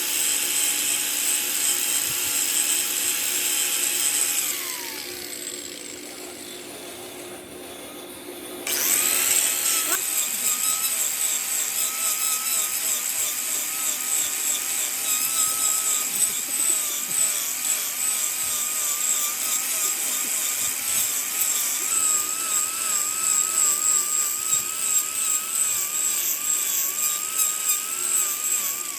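Electric power-tool motor running with a steady whine. About four seconds in it is switched off and its pitch winds down; it starts up again about nine seconds in and runs on, its pitch wavering slightly as if under load.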